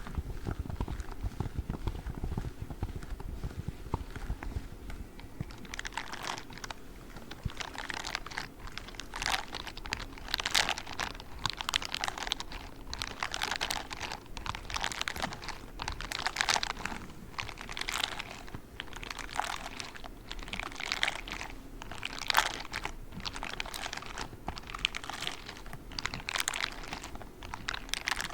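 Spiky grey ASMR gloves rubbing and scratching at close range. The first few seconds are dull, low rubbing. From about six seconds in come crisp, scratchy strokes, about one a second.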